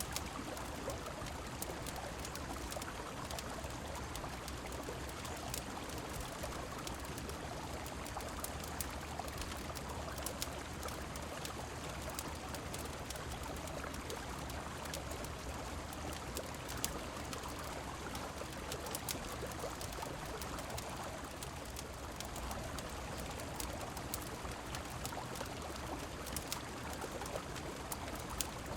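A river flowing and rain falling, a steady rushing, with scattered sharp crackles of a wood fire throughout.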